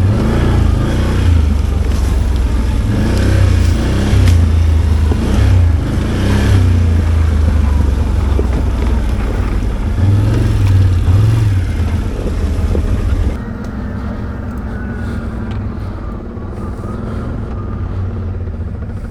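ATV engine running under uneven throttle at trail speed. About two-thirds of the way in, the sound drops abruptly to a lower, steadier engine sound.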